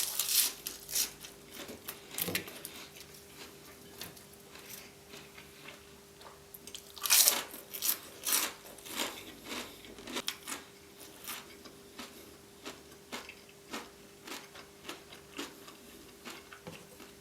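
Close-miked eating: a person biting and chewing crunchy food, with a run of crisp crunches and wet mouth clicks, loudest about seven seconds in and again around ten seconds.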